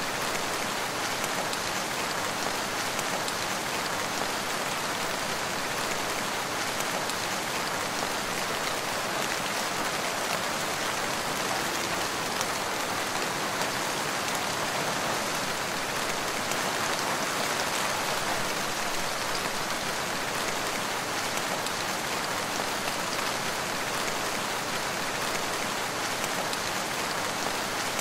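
Steady rain falling, a dense, even patter of drops with no pauses or changes.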